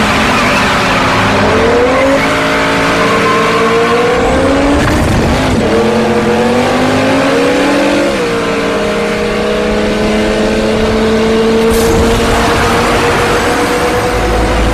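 Car engines accelerating hard at full throttle in a drag race. The engine pitch climbs, drops abruptly twice as gears are shifted, about five and eight seconds in, then rises slowly and steadily, with some tire squeal.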